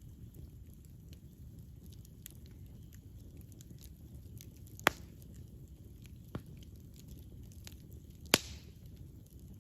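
Wood fire burning with a steady low rumble and frequent small crackles, broken by two loud sharp pops, one about five seconds in and one near the end, with a smaller pop between them.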